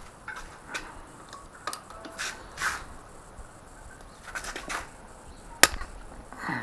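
Scattered light clicks and knocks of tools and engine parts being handled during a motorcycle top-end teardown, with one sharp, loud click a little over halfway through.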